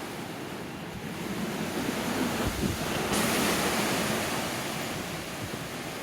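Hurricane surf and wind, a steady rushing that swells and brightens about three seconds in, with wind buffeting the microphone.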